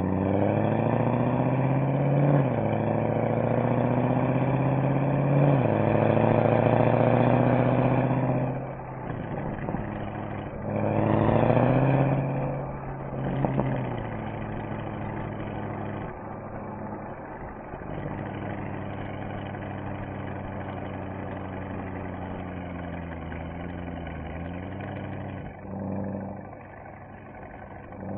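Mercedes-Benz SL63 AMG V8 and exhaust accelerating hard, the pitch climbing and dropping at upshifts about two and a half and five and a half seconds in. After lifting off there is a short second burst of throttle, then a steady, quieter cruise.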